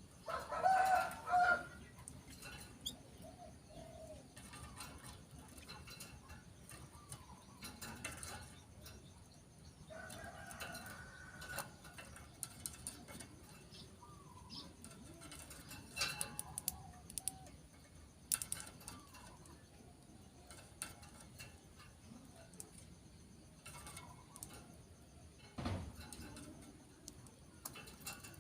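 Birds calling faintly with scattered clicks. The loudest sound is a low, drawn-out call about a second long that comes once about a second in and again around ten seconds in.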